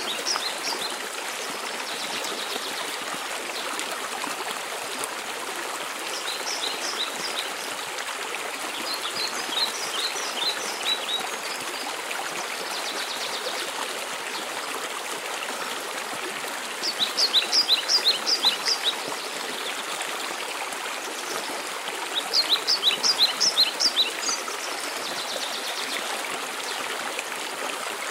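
Waterfall rushing steadily, with a songbird singing short phrases of quick high repeated notes four times, the two in the second half louder.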